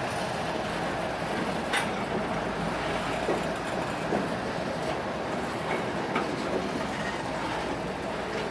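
Railroad cars rolling past on the track: a steady rumble and hiss, with scattered clicks from the wheels over the rail.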